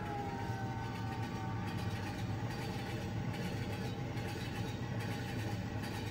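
Train sound effect: a train running steadily along the rails. A few held tones fade out in the first second or so.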